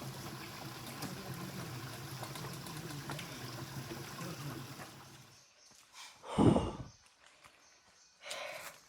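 Water running steadily, which cuts off after about five seconds; about a second later a single short, loud thump, followed by a fainter short sound near the end.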